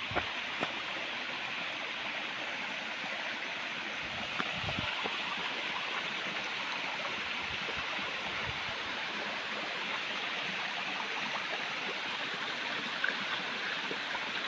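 Water of a waterfall rushing and splashing as a steady, even noise, with a brief low rumble about four and a half seconds in.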